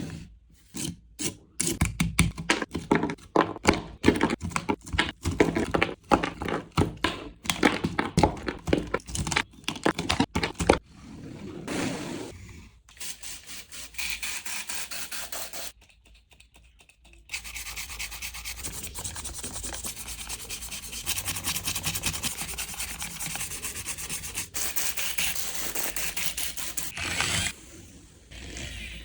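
A brush scrubbing a toy crane truck. It starts with quick, irregular scratchy strokes, stops briefly about halfway, then settles into steady, fast scrubbing.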